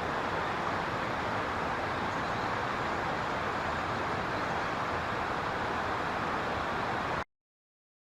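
Steady rushing background noise, with no distinct events, that cuts off abruptly into silence about seven seconds in.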